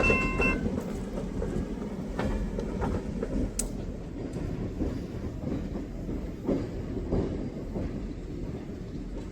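Freight train rolling past, a steady low rumble with the clacking of wheels over rail joints, slowly fading. A locomotive's multi-note horn chord cuts off about half a second in.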